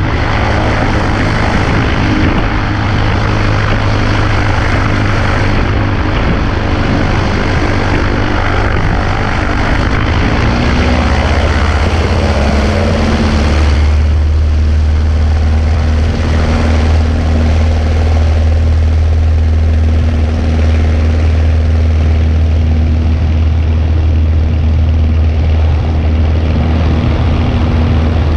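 Cessna 140A's piston engine and propeller droning steadily in flight. About halfway through, the engine note drops to a lower pitch and the rushing noise eases, as when power is reduced.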